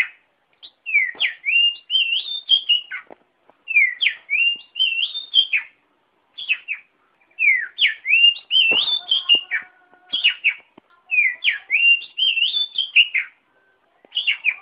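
Oriental magpie-robin (kacer) singing: the same phrase of clear whistled notes with quick rising and falling sweeps, repeated about five times with short pauses between.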